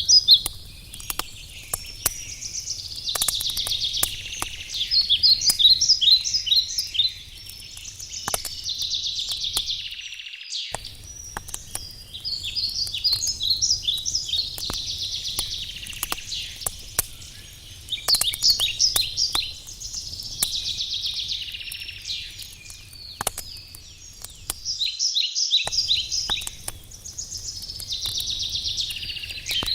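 Wood campfire crackling with scattered sharp pops, while a songbird sings short phrases of rapid trilled notes that repeat every few seconds.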